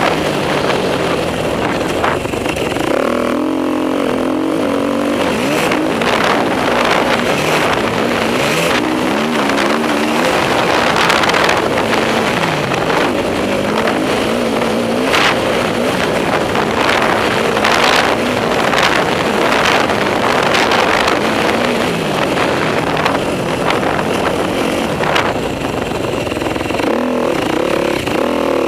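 Enduro motorcycle engine being ridden hard on a dirt track, its pitch rising and falling over and over as the throttle is opened and shut, with frequent short rushes of noise over the top.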